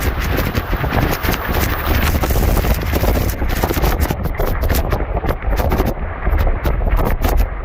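Violent straight-line wind blowing hard against the microphone: a heavy, steady rumble with a rushing hiss over it, broken by many quick clicks and taps throughout.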